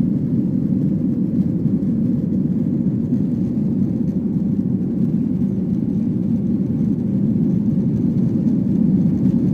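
Steady low rumble inside an airliner cabin in flight, an even drone of engines and airflow with no change.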